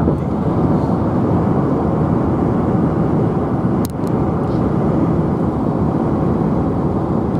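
Steady road and engine noise of a car driving at speed, heard from inside the cabin, with a single sharp click about four seconds in.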